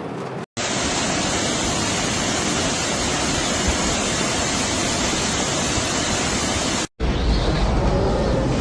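Steady rushing noise of floodwater, broken twice by abrupt cuts to silence, about half a second in and again about seven seconds in.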